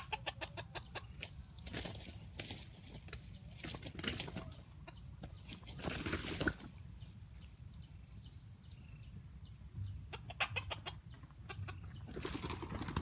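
Fowl clucking, with bursts of rapid wing-flapping every few seconds.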